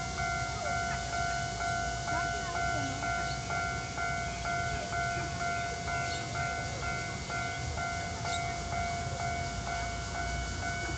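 Level crossing warning bell ringing steadily, a repeating electronic ding about twice a second, over a low rumble.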